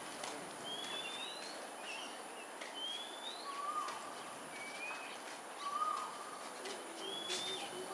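Birds calling: short whistled notes, some rising and some falling, come every second or two, and a short run of low, evenly spaced coos starts near the end.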